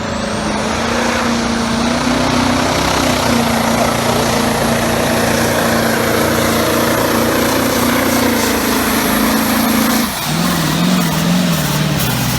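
Competition pulling tractor's engine running flat out under load, with a high whine that rises in the first second and then holds. About ten seconds in, the engine comes off full power and its revs waver up and down.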